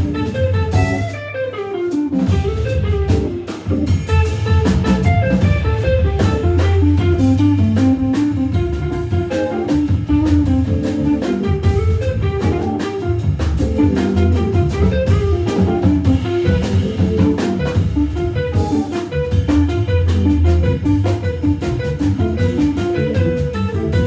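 Jazz organ trio playing: Hammond B3 organ through a Leslie speaker, guitar and drum kit. Quick runs of single notes sound over a steady organ bass line and a running drum groove.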